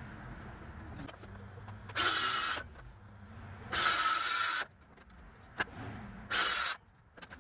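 A handheld power tool run in three short bursts, each under a second, as used in fixing new decking boards.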